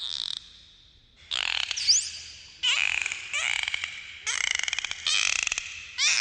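Dolphins calling underwater: a run of short bursts of rapid clicks, with whistles bending up and down through them and a quick rising whistle about two seconds in.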